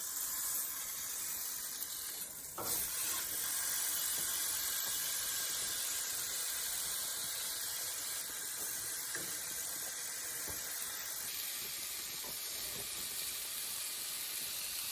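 Steak searing in a hot pan on a camp stove, sizzling steadily as its fat renders, with one short knock about two and a half seconds in.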